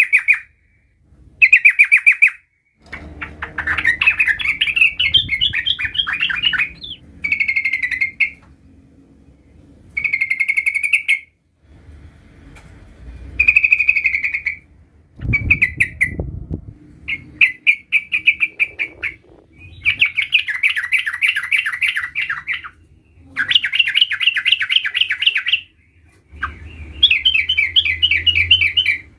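Yellow-vented bulbul singing: repeated bursts of rapid, rolling trilled phrases, each a second or two long, with short pauses between them.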